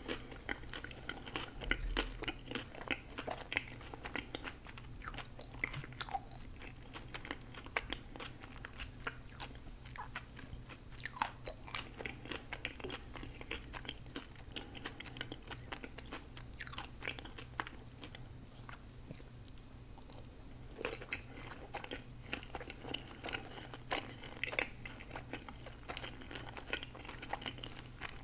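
Close-miked chewing and crunching of food, many short crunches and mouth clicks, easing off briefly about two-thirds of the way through.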